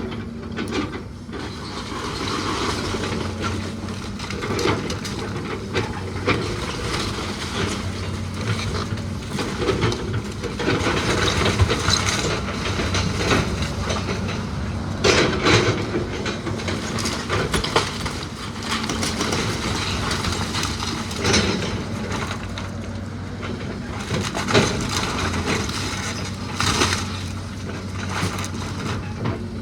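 A heavy machine's engine running steadily, with wood repeatedly crunching and cracking as the old house's rotten timber is torn down.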